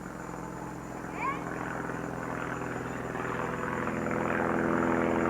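A train of sleds sliding down a snowy slope, the scraping and hiss of the runners growing louder as it comes closer, with a child's short high squeal about a second in. A steady low hum runs underneath.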